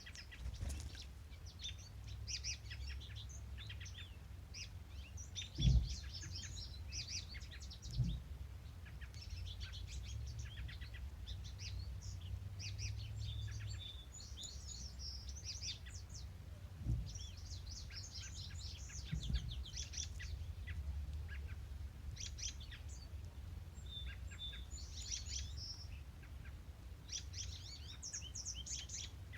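Several songbirds singing and chirping throughout, with a steady low rumble underneath and a few dull thumps, the loudest about six and eight seconds in.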